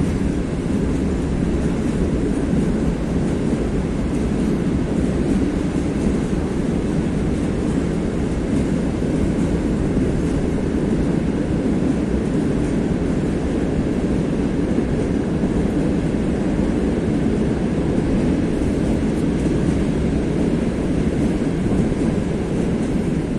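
Railway train passing close by: a loud, steady rumble of rolling wagons on the track.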